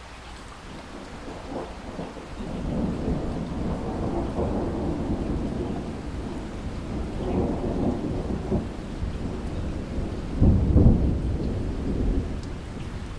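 Steady rain with a long roll of thunder. The rumble builds from about two seconds in, is loudest at a sharp crack-like peak about ten seconds in, and then eases off.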